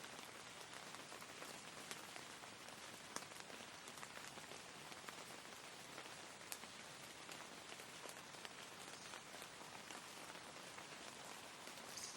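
Steady rain falling, a faint even hiss dotted with scattered drop ticks.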